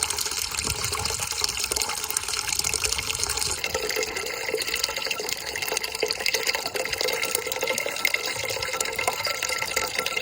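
Water running and splashing steadily while pots are washed, the sound of the flow changing about three and a half seconds in.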